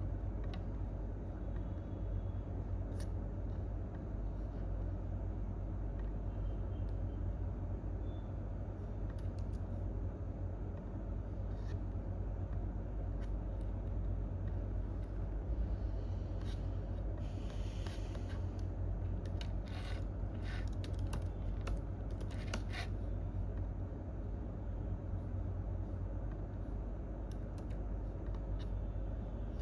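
Steady low office room hum with sparse computer keyboard and mouse clicks. A short rustle and a quick run of keystrokes come about two-thirds of the way through.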